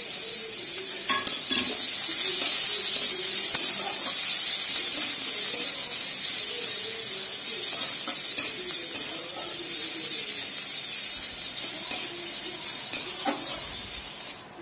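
Chopped onion sizzling in hot mustard oil in a kadai, a steady frying hiss. A flat metal spatula scrapes and clinks against the pan now and then.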